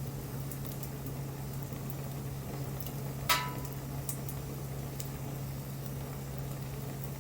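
Wood fire crackling with scattered small ticks and pops, and one loud sharp pop a little under halfway through.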